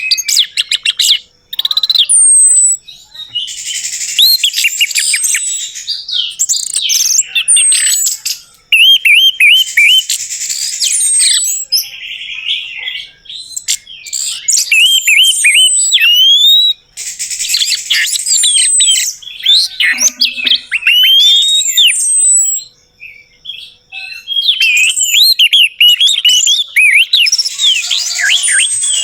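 Orange-headed thrush (anis merah) singing a fast, varied song of whistled notes, rising and falling slurs and dense chattering runs. It comes in bursts of several seconds with short breaks between them.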